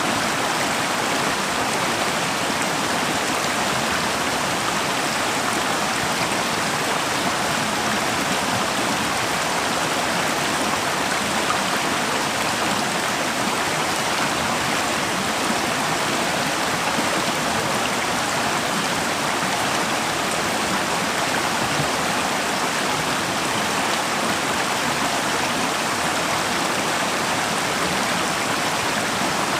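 Forest river flowing in winter, a steady rush of running water.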